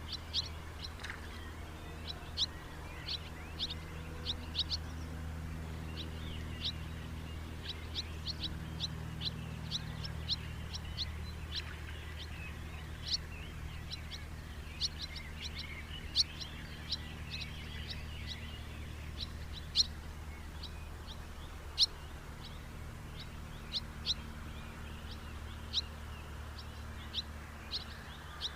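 House martins calling: many short, sharp chirps coming irregularly and sometimes in quick clusters, over a low steady hum.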